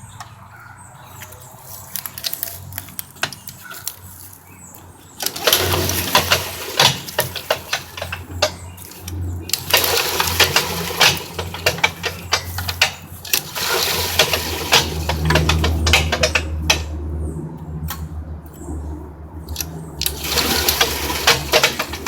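Wood chipper's 5.5 HP Tecumseh OHV engine being started: quiet at first, then catching about five seconds in and running rough and loud for a spell, faltering, and picking up again near the end.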